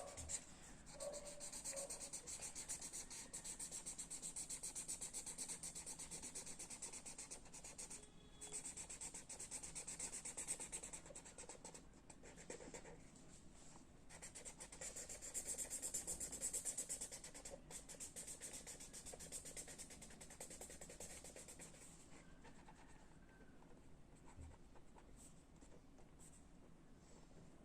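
Pen or pencil scratching on paper in rapid back-and-forth strokes, faint and continuous, growing quieter near the end.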